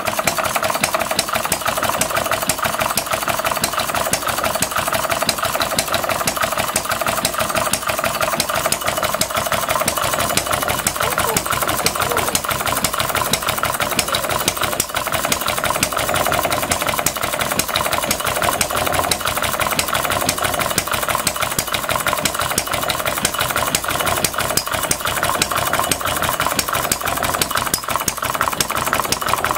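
Scale model open-crank stationary engine running steadily on propane, a fast, even train of firing beats.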